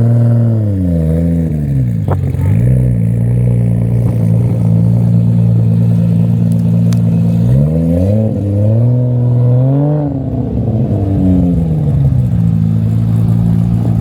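Car engine idling steadily, with revs that fall back to idle over the first two seconds and are blipped up and back down again about eight to eleven seconds in.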